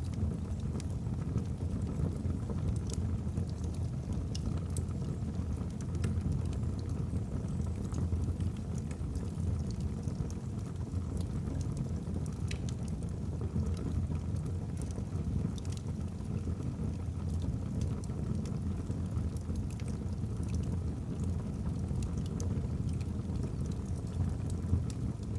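Log fire burning in a fireplace: a steady low rumble of flames with scattered sharp crackles and pops from the burning logs.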